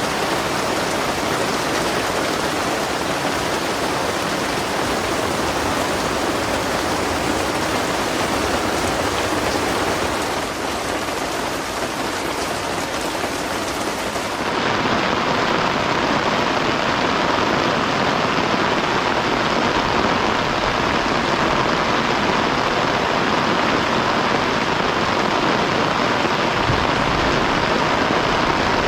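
Heavy rain falling in a steady downpour. About halfway through, the sound shifts abruptly to a slightly louder rain with less hiss.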